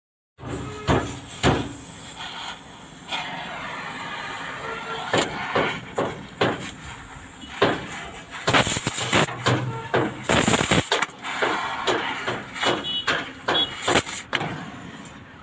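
Hammer blows on the sheet-metal cab of an Ashok Leyland Captain truck during dent repair, struck at irregular intervals, with a longer rasping stretch partway through.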